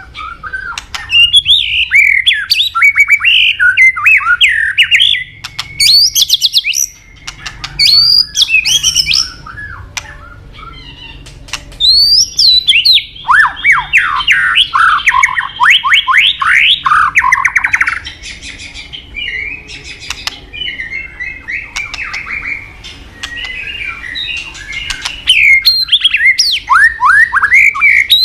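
White-rumped shama singing a loud, varied song of whistled phrases and chattering notes, with a rapid run of falling whistles in the middle.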